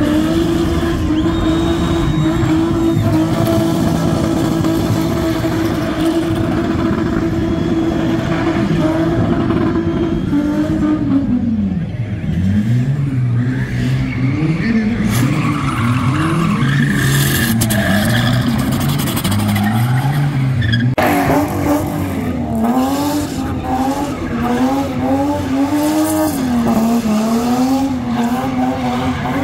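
Spinning car's engine held at high revs with tyres spinning and squealing on the pit surface. For the first ten seconds or so the revs hold steady, then they rise and fall again and again. From about two-thirds of the way in, a BMW E30's revs swing up and down quickly.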